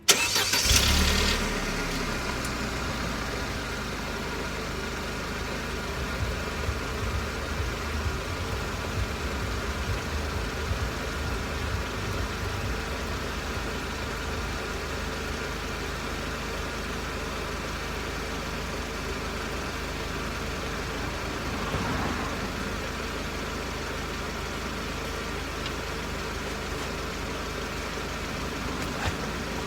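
Mercedes SLK R170 engine starting, heard from under the car at the exhaust: it catches at once, revs flare briefly, and by about two seconds in it settles to a steady idle. The exhaust sounds a little raspy, which the owner suspects is a leak at a failed exhaust mount or rusty joint.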